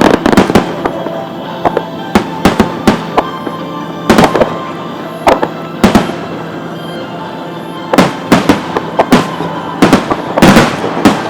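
Aerial fireworks shells bursting in irregular clusters of sharp bangs, each trailing off in an echoing rumble and crackle, with music playing underneath.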